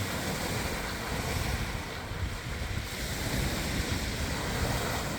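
Wind buffeting the microphone over a steady wash of water.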